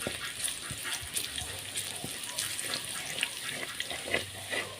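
Garlic sizzling in hot oil in a pan as it browns, a steady hiss with scattered small crackles.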